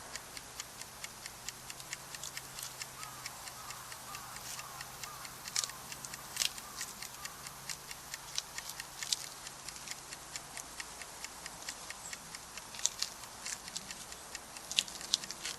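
Wood campfire crackling and popping: a steady stream of small sharp snaps with a few louder pops. A faint run of short falling chirps sounds in the middle.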